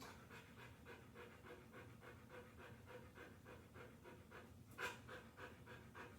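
Large dog panting quickly and evenly, faint, at about 30 pants in 15 seconds (around 120 a minute): anxious panting during a physical exam. One louder, sharper sound comes about five seconds in.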